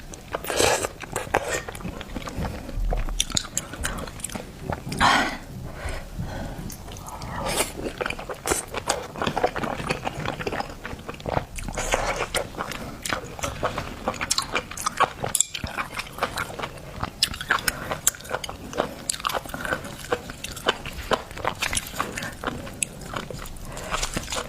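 Close-miked eating of garlic-topped oysters: wet chewing and lip smacks with many quick, irregular clicks, a little louder about a second in and again about five seconds in.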